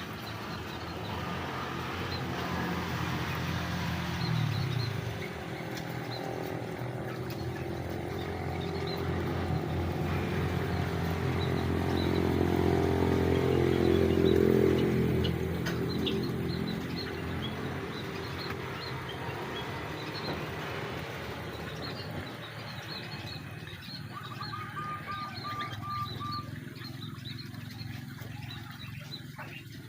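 Motor vehicle engine running, swelling to its loudest about halfway through and then fading. Bulbuls chirp and call throughout; the calls are clearer in the last third, with a short run of repeated notes.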